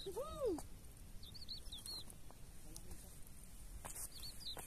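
A small bird chirping in three quick bursts of rapid high notes, over steady wind noise. A short rise-and-fall voice-like sound, the loudest thing here, comes right at the start, and there are two faint clicks near the end.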